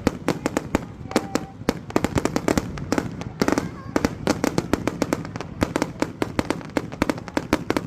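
Fireworks going off in a fast, irregular barrage of sharp bangs and crackles, several reports a second.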